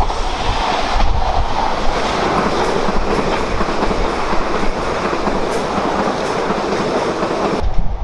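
Passenger multiple-unit train passing close by at speed: a steady rushing of wheels on rail with light clickety-clack. The sound cuts off abruptly near the end.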